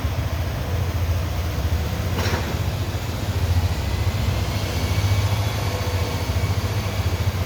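Honda PCX scooter's single-cylinder engine idling steadily with a fast, even low pulse. A short hiss sounds about two seconds in.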